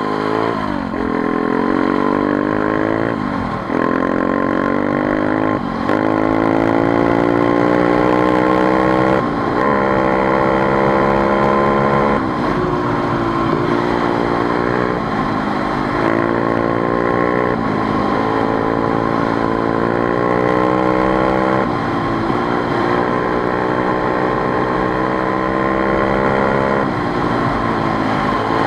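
Motorcycle engine running under way, its pitch climbing for a few seconds and then dropping sharply, over and over, as the rider works through the revs and gears.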